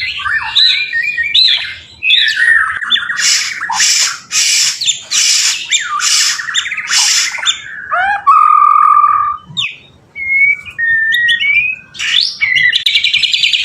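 White-rumped shama (murai batu) in full varied song. Whistled and gliding notes give way to a run of about five harsh, rattling bursts in the middle, then clear, steady whistles, and a fast trill near the end.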